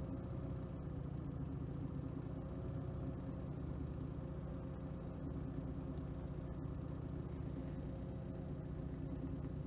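MeMZ 3071 fuel-injected petrol engine, controlled by a MIKAS 11 ECU, idling steadily at an even, unchanging speed.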